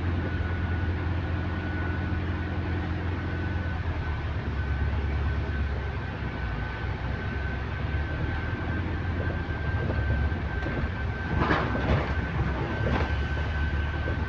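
Electric bus traction motor whining with a thin high tone that climbs slowly in pitch as the bus picks up speed, over a steady low drone of the ride. A few short knocks or rattles come near the end.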